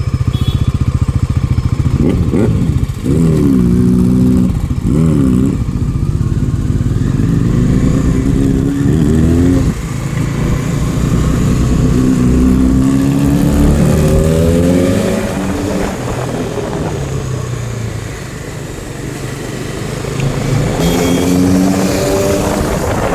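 Motorcycle engine idling, then revved in a few short blips, then accelerating hard in repeated rising climbs of pitch, each cut off by a drop as it pulls up through the gears.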